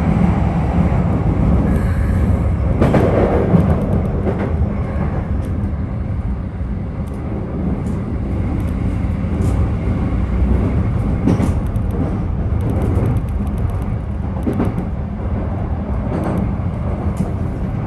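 Inside a running Keikyu 1000 series electric train car: a heavy, steady low rumble from underneath, with scattered clicks of the wheels over the rails. The uploader hears this deep underfloor rumble from car 1097's Mitsubishi traction motors as abnormal, and wonders whether the motors are a louder type or have worn.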